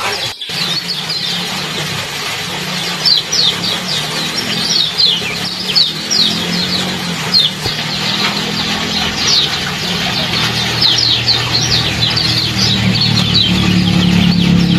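Kecial (white-eye) calling 'ciak ciak': quick runs of short, high, downward-sliding chirps, repeated throughout over a steady haze meant to be trickling water. A low hum grows louder near the end.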